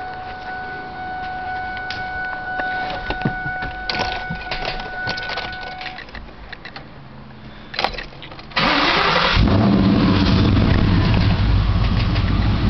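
2004 Cobra's V8 being started: after a few seconds of clicks and rattles under a steady tone, the starter cranks briefly about eight and a half seconds in and the engine catches within a second, then settles into a loud, steady idle.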